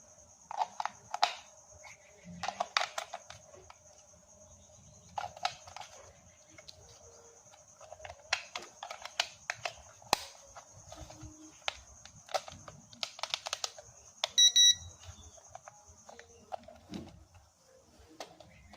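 Clusters of sharp clicks and rattles over a steady high-pitched whine, with a short burst of electronic beeps about fourteen seconds in.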